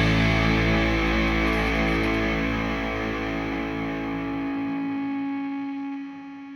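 The song's final chord left ringing on distorted electric guitar, sustaining and slowly dying away. The lowest notes drop out about four and a half seconds in, and the rest fades out near the end.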